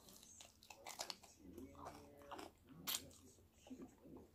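Faint mouth sounds of a person biting and chewing a crispy chicken wing: a run of short crunches and wet chewing clicks, the sharpest crunch about three seconds in.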